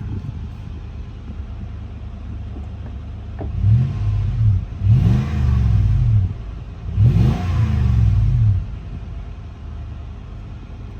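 Lexus GX 470's 4.7-litre V8 idling through a Magnaflow overland exhaust, then revved three times in the middle, each rev rising and falling back to idle. A subtle, not loud exhaust note.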